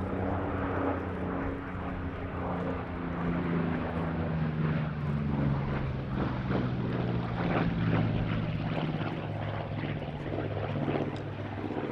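Yak-52 and Yak-18T aerobatic aircraft flying a display formation, their nine-cylinder M-14P radial engines running with a steady propeller drone whose pitch slides slowly lower.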